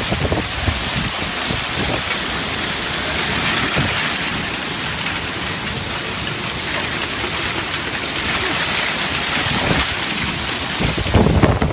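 Heavy rain pouring down, a steady dense hiss, with a few low thumps near the end.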